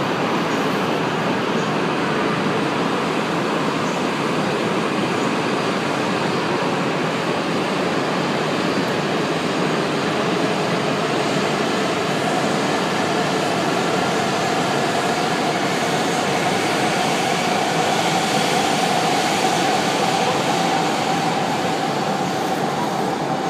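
E5 series Shinkansen train moving slowly along the platform: a steady rumble of wheels and running gear, with a motor whine that rises in pitch from about halfway through as the train gathers speed.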